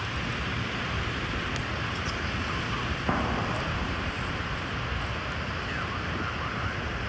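Steady wind noise on the microphone, with the level stepping up slightly about three seconds in.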